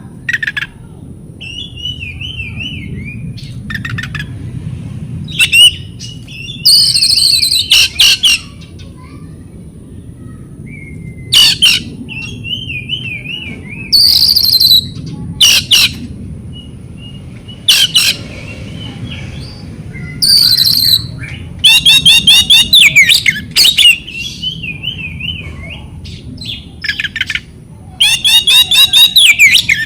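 Oriental magpie-robin (kacer) singing a loud, varied song: zigzag warbled phrases alternating with harsh, fast rattling bursts, repeating every second or two with the longest rattles near the middle and end.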